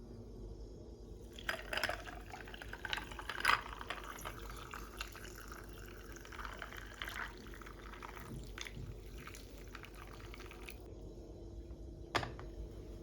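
Liquid being poured or running, with small clinks and knocks, for about ten seconds; it stops and a single sharp click follows near the end.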